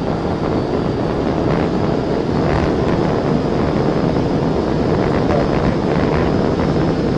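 Steady, loud rush of wind and road noise in a car's cabin at high speed, with no siren wail or horn standing out.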